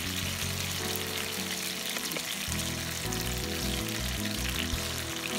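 Food sizzling as it fries in hot oil in a pan, a steady crackling hiss, over background music.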